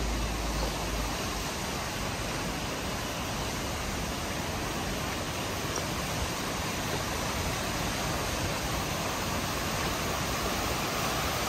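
Water from a fountain splashing and rushing steadily, growing a little louder near the end.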